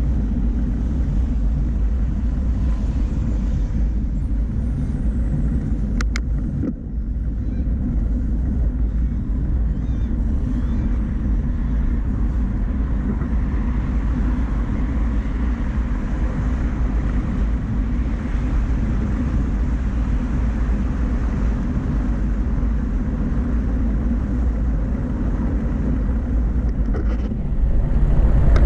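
Steady low rumble of wind and road noise while riding a bicycle, with a single sharp click about six seconds in. The rumble grows louder near the end.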